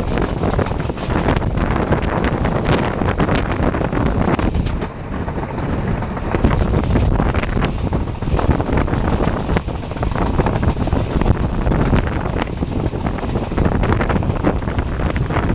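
Passenger train running at speed, heard from an open coach doorway: wind buffeting the microphone over the rumble of the wheels and a dense clatter of the wheels on the rails.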